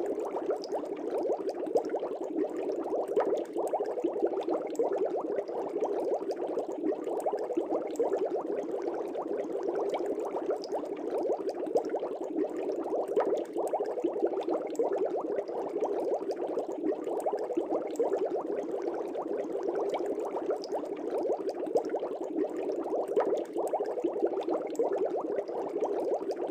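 Fish-tank air bubbles bubbling steadily underwater, a dense stream of small, quick pops.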